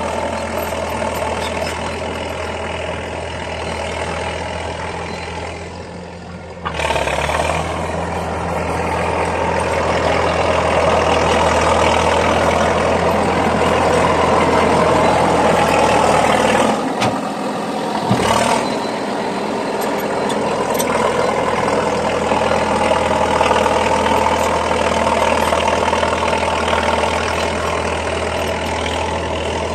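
Komatsu D50A crawler dozer's diesel engine running through a loud open exhaust as it pushes into a dirt pile. About six seconds in the engine drops back, then picks up and pulls hard under load, with a brief dip and a couple of sharp knocks a little past halfway.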